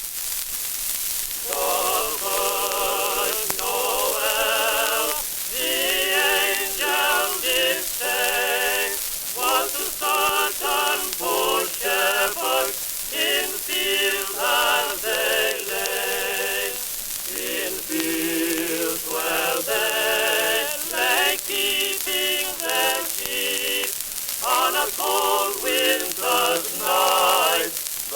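Early shellac phonograph record playing: voices sing with a wide vibrato from about a second and a half in, thin-toned and without low bass, over a steady surface hiss from the worn disc.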